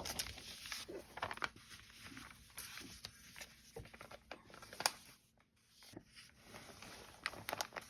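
Paper and fabric being handled for paper piecing: irregular rustling, crinkling and light taps, with a few sharper clicks.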